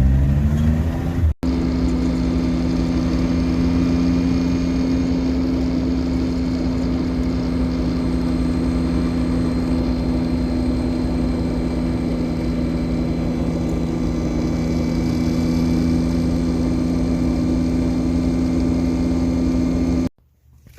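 Suzuki Jimny on the move: in the first second the engine note rises as it accelerates. Then it holds a steady speed, with an even, unchanging drone from the engine and drivetrain, until the sound cuts off suddenly near the end.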